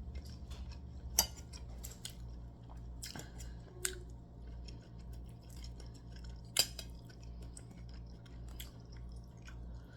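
A few scattered small clicks and taps over a steady low hum.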